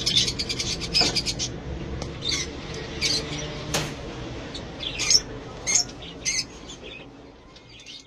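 Small caged birds chirping: a quick chattering run of high chirps at first, then single short chirps every half second or so.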